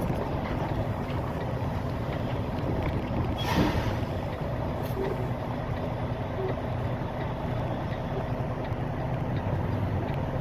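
Steady engine and road rumble inside a semi-truck's cab while driving, with a short hiss about three and a half seconds in.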